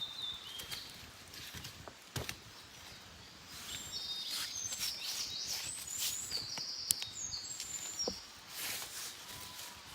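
Wild birds singing: a few high chirps at the start, then a busy run of quick high song notes through the middle. Scattered sharp clicks and pops run underneath.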